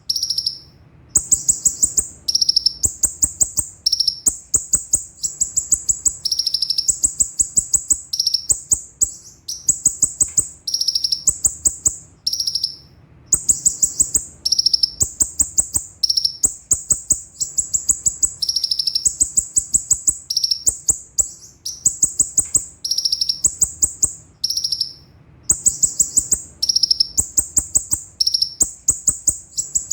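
Konin (kolibri ninja) sunbird singing in fast rolling bursts of high, sharp notes, phrase after phrase with brief pauses.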